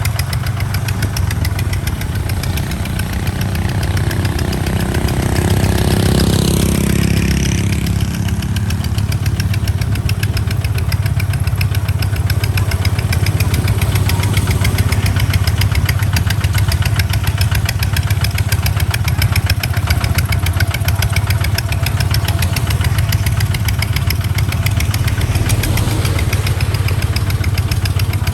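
Kubota hand tractor's diesel engine running steadily while hauling a load of sand on the road, with a brief louder sweeping swell about six seconds in.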